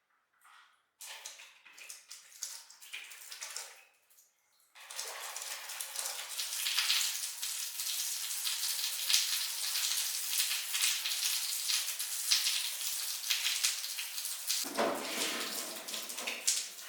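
Water running and splashing: a few short spurts at first, then a steady stream that fills in lower and grows fuller near the end.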